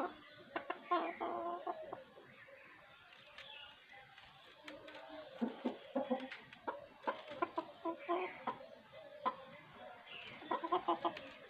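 Chickens clucking in short, scattered runs of calls, busiest about a second in, through the middle and again near the end, with a few sharp clicks between.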